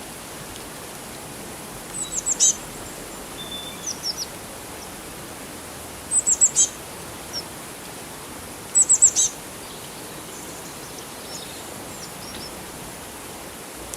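A songbird repeating a short phrase of four or five quick, high, down-slurred notes three times, about every three to four seconds, with a few softer chirps between, over a steady background hiss.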